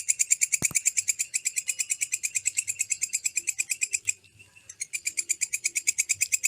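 A bird chirping in a fast, even trill of high notes, about ten a second, breaking off briefly about four seconds in and then starting again.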